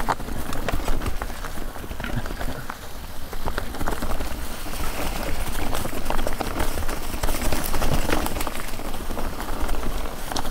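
A Guerrilla Gravity Smash mountain bike descending a rocky trail: a steady rush of tyres over rock and loose gravel, with a rapid, irregular clatter of small knocks and rattles from the bike.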